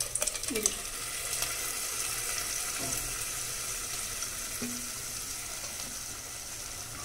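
Hot tomato masala sizzling in a clay pot as thick cooked black urad dal is poured in from a pressure cooker and scraped out with a silicone spatula. There are a few short scrapes and knocks in the first second, then a steady sizzle.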